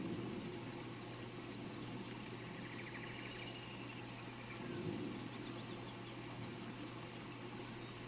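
Steady hiss of rain, with a few faint bird chirps and a short trill about three seconds in.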